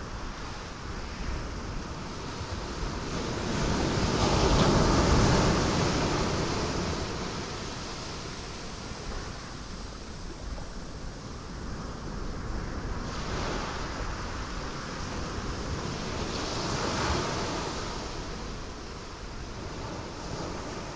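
Ocean waves breaking on rocks over a continuous rush of surf, the biggest wave surging about five seconds in and smaller ones breaking near the middle and again later.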